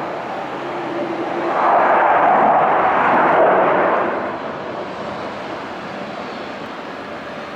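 F-15 fighter jet roaring overhead as a loud, rushing noise that swells to its loudest from about two to four seconds in, then eases off.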